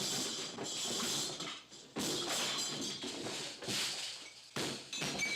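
Cartoon soundtrack music mixed with noisy sound effects in several rushes broken by short gaps.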